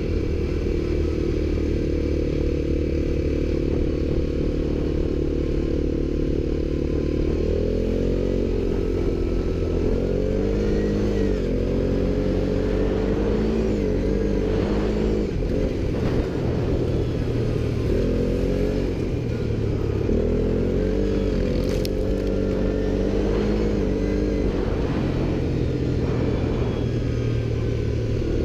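ATV engine running steadily, then revving up and down repeatedly with the throttle from about seven seconds in, settling back to a steady run near the end.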